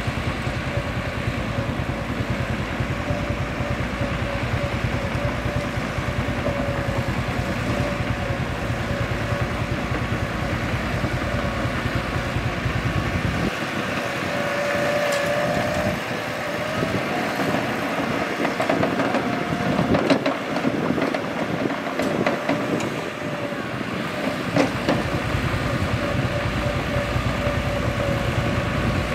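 Mitsubishi BD2G bulldozer's diesel engine running steadily with a held whine. About halfway through, the deep rumble drops away for several seconds and a few sharp metallic knocks come through.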